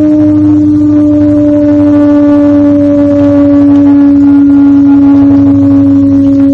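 A loud, drawn-out horn-like drone on one pitch that sinks very slowly lower, over a low hum: one of the unexplained 'strange sounds' reported from the sky, recorded on a phone.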